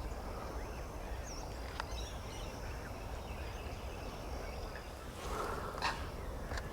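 Wetland ambience with scattered bird calls: a few faint high chirps, then a louder, lower waterbird call about five seconds in. Two short clicks near the end.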